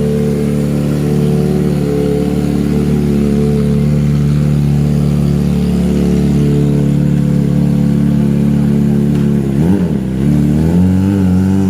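Kawasaki ZX-25RR's 249 cc inline-four engine through an aftermarket racing exhaust, running at steady revs. Just before the end the revs swing up and back down quickly, then settle at a slightly higher pitch.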